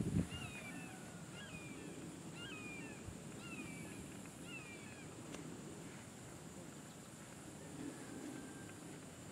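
A songbird repeating a short, down-slurred whistled note, about two a second, through the first six seconds and again faintly near the end, over low steady background noise.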